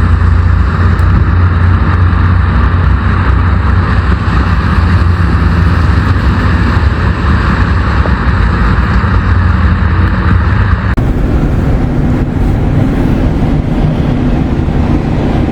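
Steady, loud rumble of a road vehicle driving, engine and road noise together. The sound changes abruptly about eleven seconds in.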